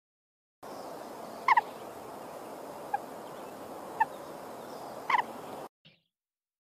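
A bird giving short, clipped calls four times, the first and last as quick double notes, over a steady background hiss.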